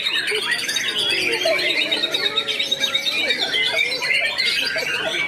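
White-rumped shama (murai batu) singing a fast, continuous, varied song of quick rising and falling notes.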